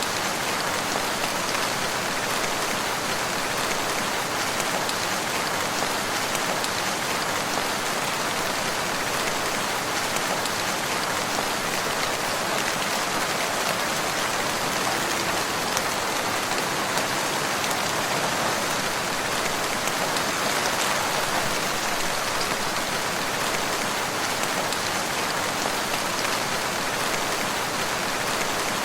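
Steady, heavy rain falling on surfaces, a dense even patter with no let-up.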